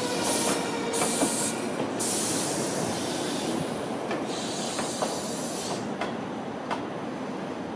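Locomotive moving slowly on railway track. A fading wheel squeal gives way to intermittent bursts of hissing and a few sharp clicks over a rolling rumble that slowly grows quieter.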